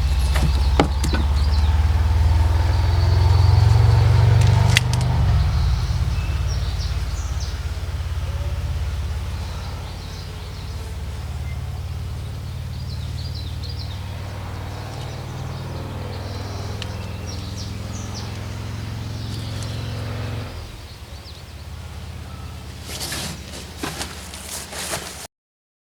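Ford N-series tractor engine running, louder for the first few seconds, then running steadily until it shuts off about twenty seconds in. A few sharp knocks follow.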